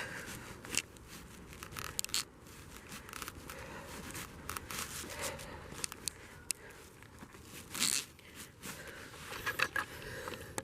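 Plastic sheeting crinkling and rustling as it is handled, with scattered sharp clicks.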